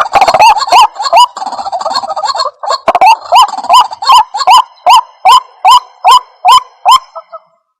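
White-breasted waterhen (ruak-ruak) calling: a fast series of loud, short, upward-hooked notes, about two or three a second, crowded together at first and then evenly spaced, stopping shortly before the end.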